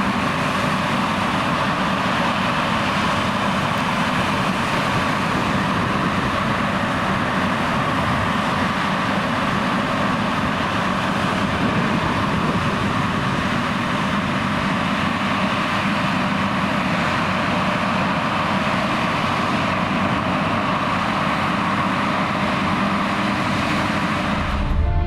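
John Deere X9 1100 combine harvester running steadily under load, an even machine drone with no change in pitch. Music comes in right at the end.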